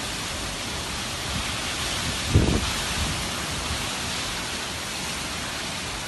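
Steady hiss of heavy tropical-storm rain, with a brief low rumble about two and a half seconds in.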